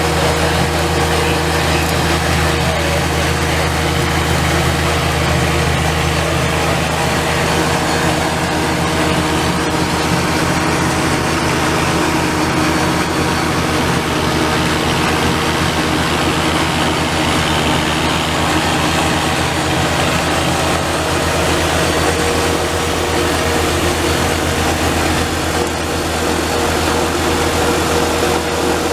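Small Kubota compact tractor's engine running steadily at a constant speed, with a steady low hum.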